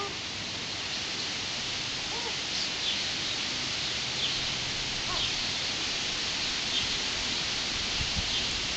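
Outdoor ambience with a steady hiss, over which a bird repeats short, high, falling chirps about once a second.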